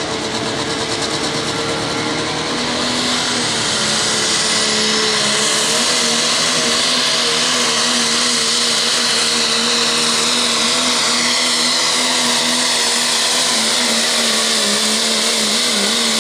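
Pro Stock diesel pickup making a full-throttle pull with the sled, its boosted diesel engine running flat out with a high whine. The sound builds over the first few seconds, then holds steady until it drops away right at the end.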